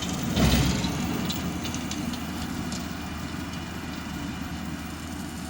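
Engine idling steadily, with one brief louder burst about half a second in.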